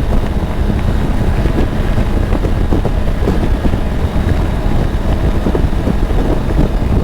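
Steady wind rush buffeting a helmet microphone on a motorcycle at road speed, with the Triumph Tiger 900's engine running underneath.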